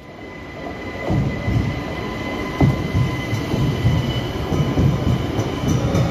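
GySEV 'Ventus' electric multiple unit running past along the platform: steady wheel-and-rail rumble with electric whine tones above it, and one sharp clack about two and a half seconds in. The sound builds over the first second, then holds steady.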